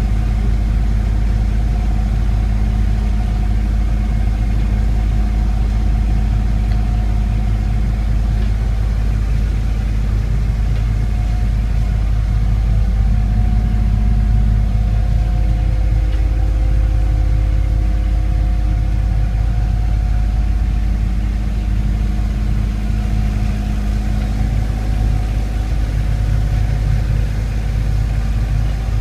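Boat engine running steadily: an even, low rumble with a constant hum, its pitch shifting a little midway.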